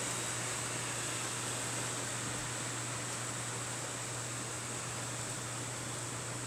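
Rain falling steadily: an even hiss, with a low steady hum underneath.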